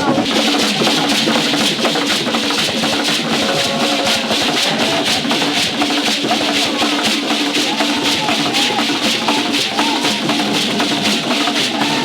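Music with a fast, steady shaker and drum rhythm. A wavering melody comes in about four seconds in.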